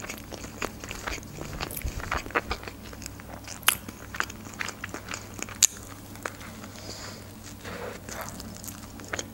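Close-miked chewing of a burger with iceberg lettuce: scattered wet mouth clicks and soft crunches, with another bite into the burger near the end.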